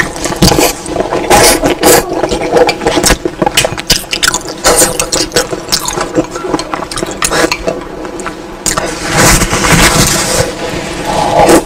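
Close-miked eating sounds: wet chewing and smacking of sticky braised meat, with irregular clicks and a longer slurping stretch near the end.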